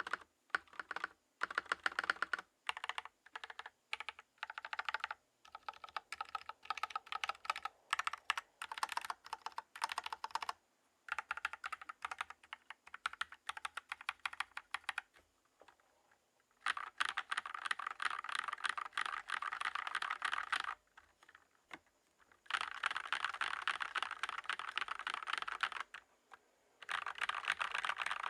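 Tom680 65% mechanical keyboard with stock switches and Tex ADA profile keycaps being typed on. Keystrokes come unevenly at first, then in three fast, dense typing runs with short pauses between them.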